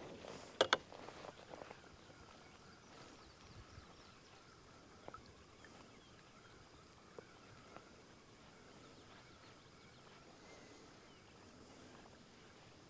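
Quiet open-water ambience from a kayak, a faint steady hiss with a faint thin tone. There are two sharp knocks just under a second in and a few faint ticks later on.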